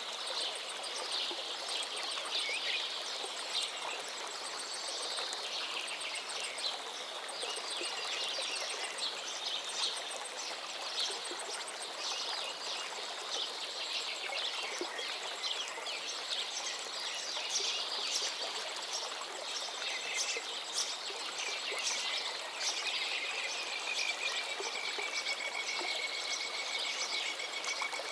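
Dense chorus of small songbirds chirping and singing without a break, with a thin, very high repeated trill and, in the last few seconds, one long drawn-out whistle, over a steady background hiss.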